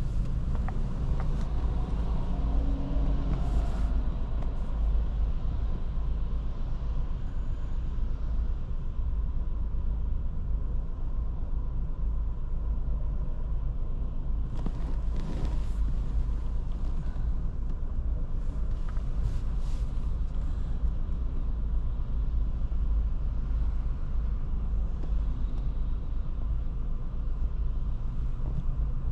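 Road driving in a Skoda Kamiq with its 1.0 TSI three-cylinder petrol engine: a steady low rumble of engine and tyre noise. A couple of brief, hissier swells of road noise come about halfway through.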